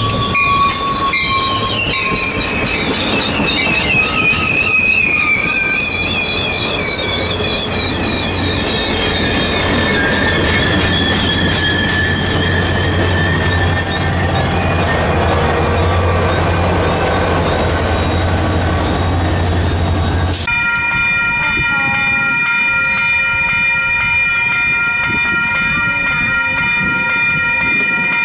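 Caltrain push-pull commuter train passing close by: wheels squealing in wavering high tones over the steady low drone of the diesel locomotive pushing at the rear. It cuts off suddenly about 20 seconds in, and a steady sound of several held tones follows.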